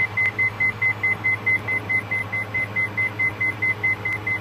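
Cockpit warning tone in a Diamond DA42 NG beeping rapidly, several short beeps a second, over the steady drone of the engine and airframe; it sounds while the left engine is being shut down and feathered in an engine-failure drill, and stops near the end.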